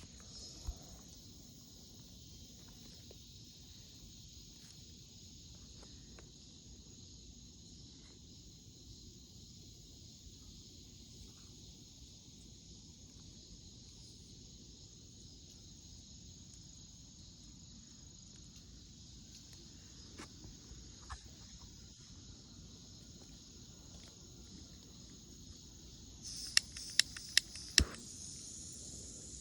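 A steady, high-pitched chorus of summer insects that swells louder near the end. Five sharp clicks in quick succession come near the end and are the loudest sounds.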